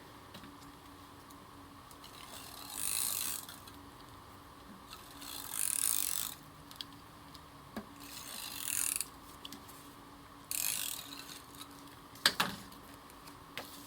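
Adhesive tape runner drawn along the edges of a piece of cardstock: four separate strokes of about a second each, then a single sharp click near the end.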